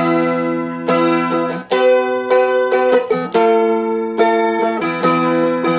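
Seagull Merlin, a four-string strummed dulcimer, flatpicked in a steady run of chord strums with ringing, sustained strings, the chord changing a few times as it plays through the verse.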